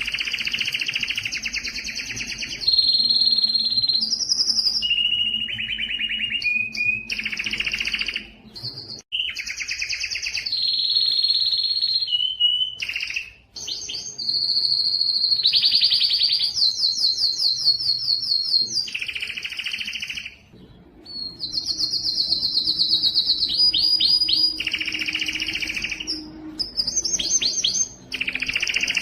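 Domestic canary singing a long song of rapid trills and rolls, each phrase a fast run of repeated notes, changing pitch from phrase to phrase, with a few short pauses.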